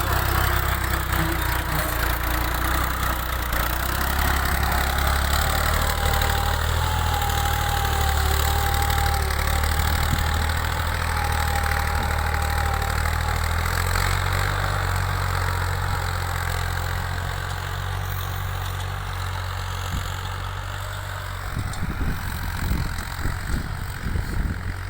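Al-Ghazi tractor's diesel engine running steadily with a strong low hum. About 21 seconds in the engine note drops and irregular knocks or wind gusts take over.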